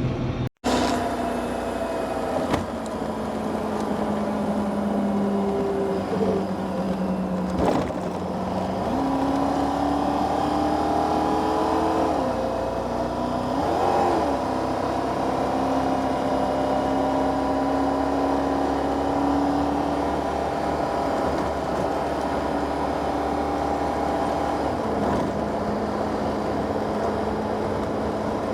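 Rollback truck running down the road, its steady engine drone stepping up and down in pitch several times as the engine speed changes.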